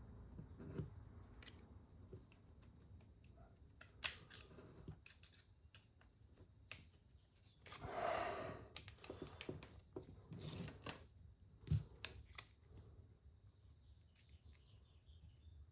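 Small clicks, taps and scrapes of tools and parts being handled while fitting a motor into an RC car chassis. There is a brief rasping scrape about eight seconds in and one sharp click a little before twelve seconds.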